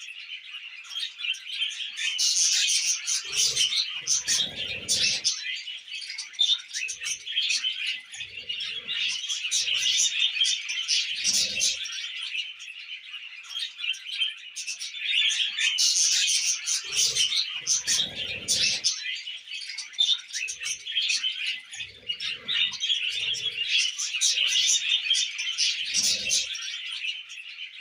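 Budgerigars chattering and warbling nonstop, many small chirps overlapping. About ten short, dull low thumps are scattered through it.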